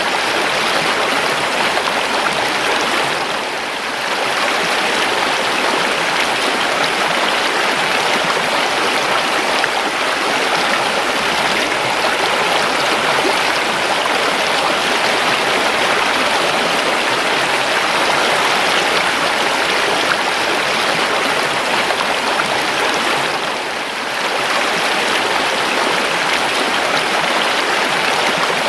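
River water flowing: a steady, even rush that dips briefly twice.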